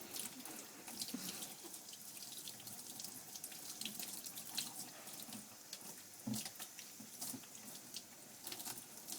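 Warm water running from a bath shower hose onto a dog's coat: a steady hiss of spray with scattered splashes and drips.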